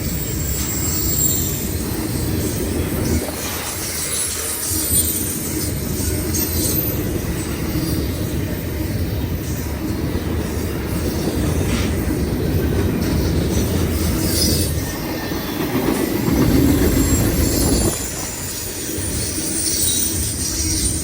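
Freight train cars rolling past with a steady rumble, their wheels squealing against the rail.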